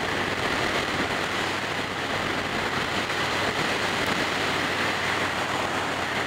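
Steady wind rush over the microphone of a motorcycle cruising at highway speed, with the Yamaha Raider's V-twin engine droning steadily underneath.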